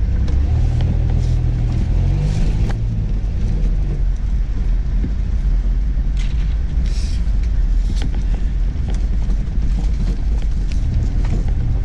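A 4x4's engine and drivetrain heard from inside the cab while driving over a snowy dirt track: a steady low rumble whose engine note rises briefly in the first few seconds. Scattered knocks and rattles come from the body over the bumps.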